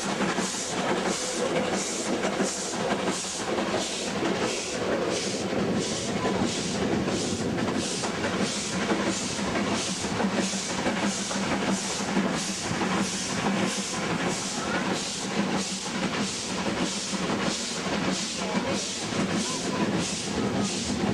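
Steam locomotive exhaust beats from the double-headed W-class locomotives, an even chuffing of about two beats a second over a steady rumble, as they work the train uphill.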